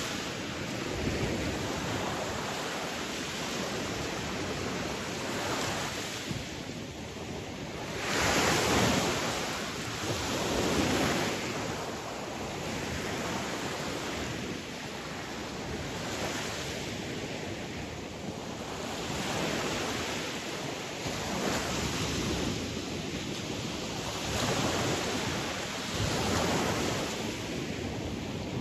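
Sea waves breaking and washing on a shore, the surf swelling and easing every few seconds, with the loudest breakers about a third of the way in.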